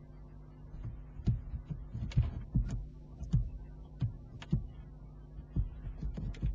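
A run of about a dozen irregular soft knocks and taps over a steady electrical hum.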